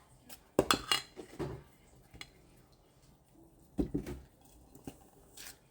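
A spoon knocking and scraping against a mixing bowl while stirring a thick dumpling dough of baking mix and buttermilk, in two bursts: about half a second in and again about four seconds in, with a few light ticks between.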